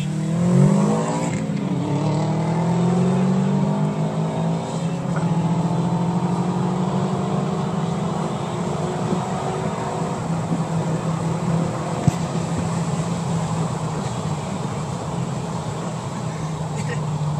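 A 2000 Ford Mustang with a cat-back exhaust and tune, heard from inside its cabin under hard acceleration. The engine note climbs quickly in the first second, then rises more slowly for several seconds before levelling off, with one sharp click about twelve seconds in.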